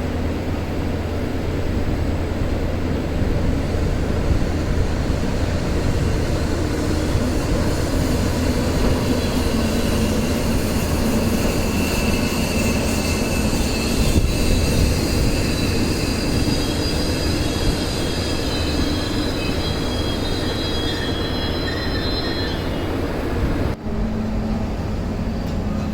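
Train hauled by a ZSSK Class 361 electric locomotive running into the station, with steady wheel and rail rumble. From about halfway, high wheel squeal joins it. Near the end the sound cuts abruptly to a steadier hum.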